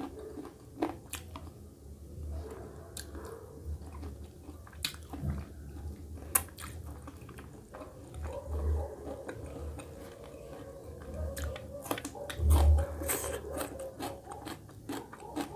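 Close-up eating sounds: mouthfuls of mutton curry, rice and green chillies being bitten and chewed, with wet smacks and crunchy bites making many sharp clicks. A louder low thump comes about twelve and a half seconds in.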